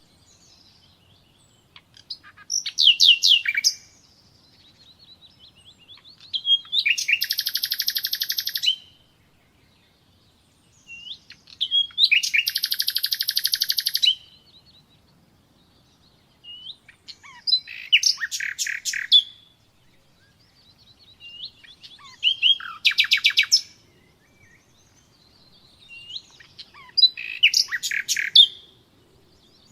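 Nightingale singing: about six separate phrases a few seconds apart, each a quick run of repeated whistled notes and rapid trills, with short silences between.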